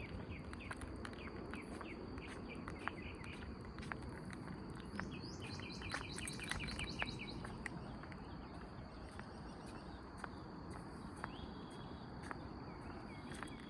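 Outdoor morning ambience of birds chirping, with a fast run of repeated high chirps about five to seven and a half seconds in, over scattered small clicks and footsteps on a path.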